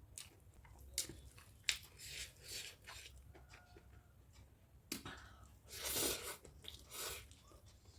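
Close-up eating sounds: crunching bites and chewing. Two sharp clicks come about a second in, and louder crunchy bursts come near the middle and towards the end.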